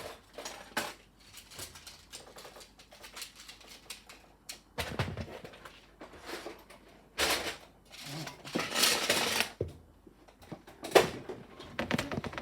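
Loose plastic Lego pieces clattering and clicking as they are sorted by hand, in irregular bursts with a few sharp clicks.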